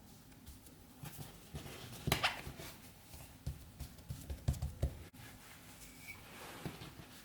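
Soft knocks and low thumps of hands working on a kitchen surface: one sharper knock about two seconds in, then a cluster of dull thumps a couple of seconds later.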